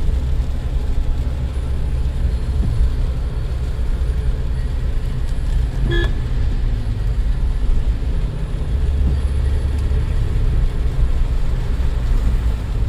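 Steady low rumble of a Suzuki Jimny's engine and tyres while driving up a winding mountain road, with one short horn toot about six seconds in.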